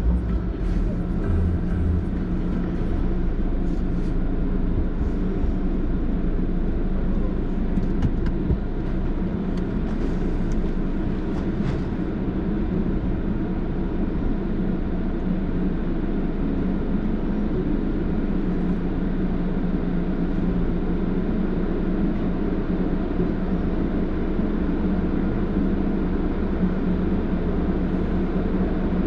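Steady low rumble with a constant hum, heard from inside a car at an automatic tunnel car wash, with a few faint clicks in the first twelve seconds.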